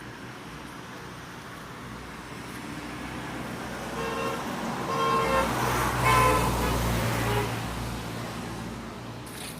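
A motor vehicle passes by, its engine rumble swelling and then fading, and it sounds its horn in several short toots as it goes by.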